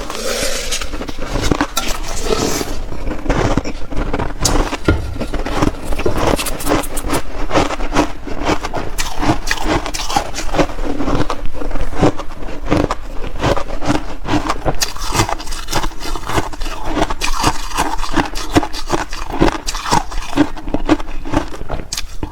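Shaved ice being chewed in big bites close to the microphone: a dense, continuous run of crisp crunches.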